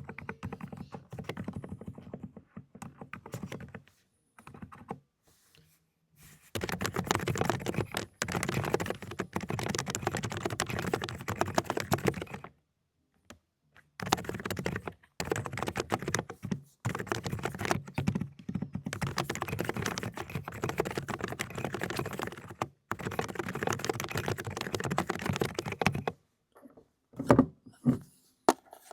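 Fast typing on an AULA (독거미) mechanical keyboard with low-noise 'cotton candy' switches: dense runs of soft key clicks in several bursts, with short pauses between them. The first burst is quieter. Near the end come two louder single knocks.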